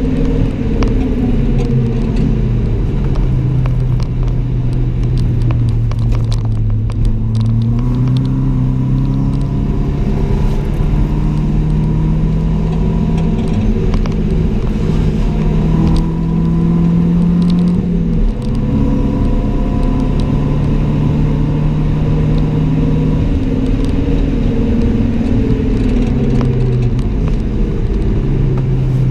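Mitsubishi Colt CZT's 1.5-litre turbocharged four-cylinder engine heard from inside the cabin at track pace, with loud road and tyre noise. The engine note sinks slowly, then climbs steadily under acceleration, drops suddenly about 18 seconds in, and rises and falls again after.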